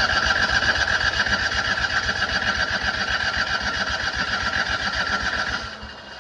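Citroën 2CV's air-cooled flat-twin engine being cranked on the starter motor with a fast, even chugging, not catching, until the starter is released near the end: the engine won't start.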